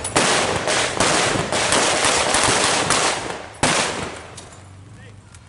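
Rapid blank gunfire, machine-gun style, from a mock wartime battle. Dense cracking for about three and a half seconds, then one more loud burst that dies away, leaving it quieter near the end.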